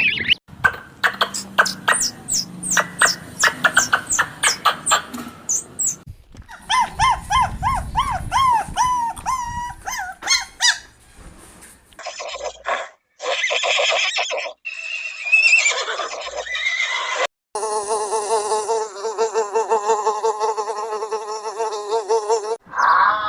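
A series of animal calls cut one after another: rapid high chirping, then repeated pitched chirps, other short calls, and in the last few seconds a steady pulsing call.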